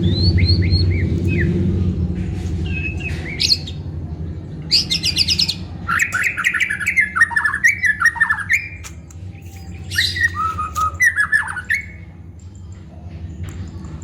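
White-rumped shama (murai batu) singing: bursts of varied whistled phrases that glide up and down, mixed with sharp clicking notes. A low steady hum underneath fades away over the first few seconds.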